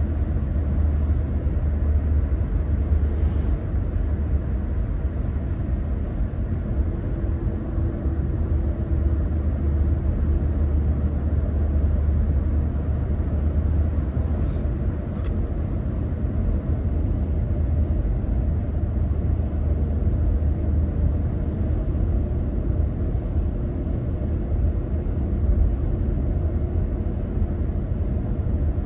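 Car driving along, a steady low road and engine rumble with no change in pace. Two faint brief ticks sound about halfway through.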